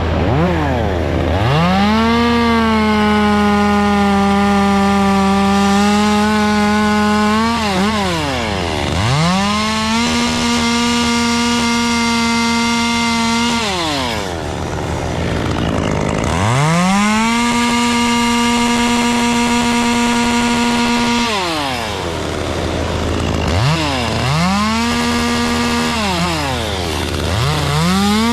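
Two-stroke chainsaw revved to full throttle and held for several seconds at a time, pitch sagging a little under load, then dropped back to idle: four cuts through beech wood, with another rev starting at the end.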